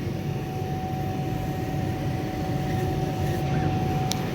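CO₂ laser cutter's machinery, its fans and pumps, running with a steady whir, a low rumble and a constant mid-pitched hum. A faint click near the end.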